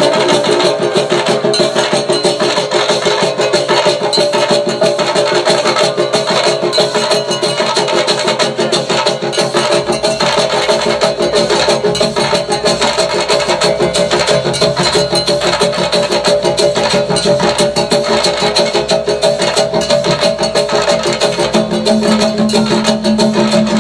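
Percussion-driven music with a fast, steady beat of drum and wood-block strokes; a deeper bass layer comes in about ten seconds in.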